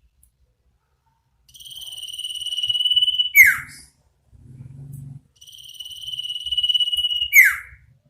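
Iora (sirtu) calling twice: each call is a long high whistle on one pitch that grows louder for a second or two, then snaps into a quick downward-swept note, the 'ngetir' then 'cipow' pattern. A faint low sound comes briefly between the two calls.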